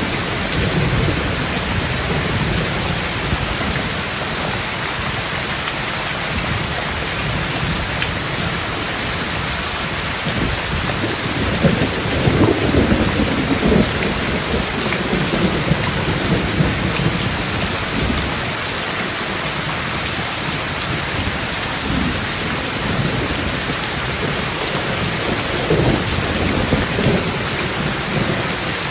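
Rain falling steadily with rolling thunder rumbling underneath: a louder, drawn-out roll of thunder about halfway through and another shorter rumble near the end.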